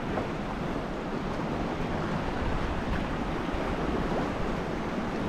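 Steady wash of the sea around a kayak over a reef, an even hiss of water without distinct splashes.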